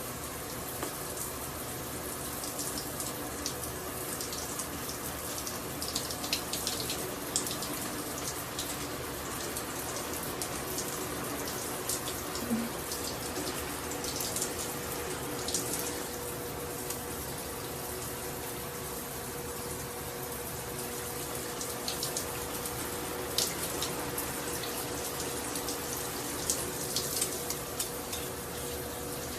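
Steady running water, like a tap running, with scattered short, sharp high clicks or splashes over it.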